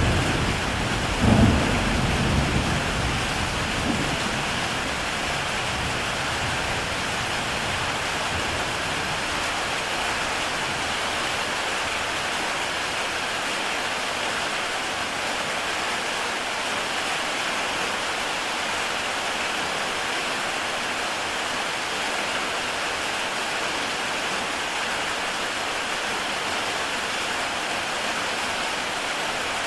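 Heavy rain falling steadily on a tile roof, an even hiss. A low rumble of thunder sounds in the first few seconds, loudest about a second in, then dies away.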